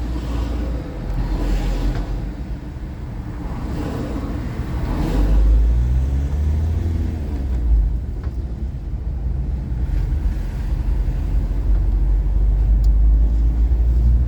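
Low rumble of a car driving slowly, heard from inside the cabin, with road and engine noise swelling twice in the first five seconds.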